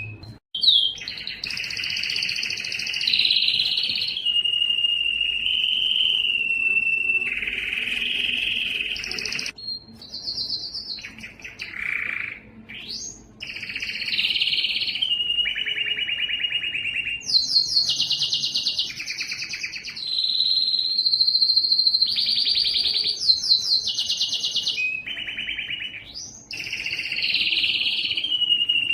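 A yellow canary singing a long, continuous song of rapid trills and held rolling notes, switching phrase every second or two. Near the middle come a few quick up-and-down whistled glides.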